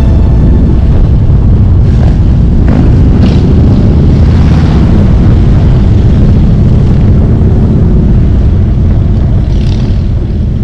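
Loud, steady low rumble of motorcycle engines running, which starts to fade near the end.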